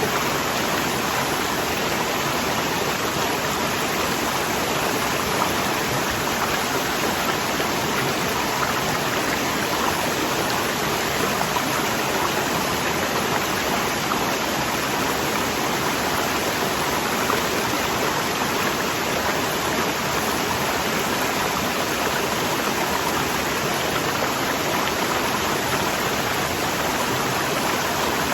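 Waterfall rushing, a steady, even wash of falling and flowing water with no change over the whole stretch.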